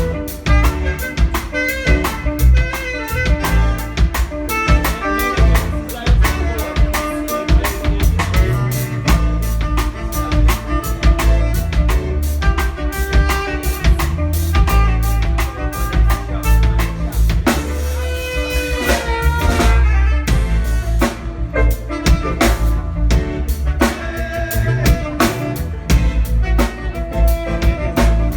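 Live band playing an instrumental at a sound check, with a drum kit keeping a steady beat under pitched instruments.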